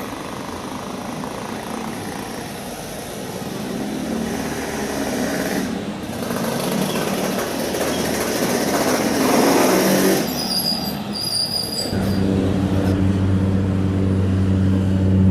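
Piper PA-28-181 light aircraft passing, its engine noise swelling to a peak and breaking off about twelve seconds in. A steady, even engine hum from a Cessna 208B Grand Caravan turboprop follows.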